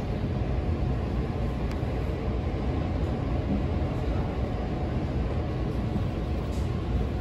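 Electric local train running, a steady rumble heard from inside the passenger car.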